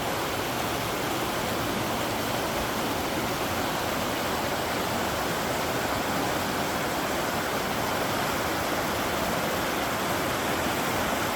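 A river running high, its water rushing in a steady, unbroken wash.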